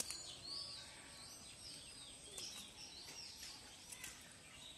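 Birds chirping: many short, high, arching calls in quick succession over a faint steady background noise, with a few faint clicks about two and four seconds in.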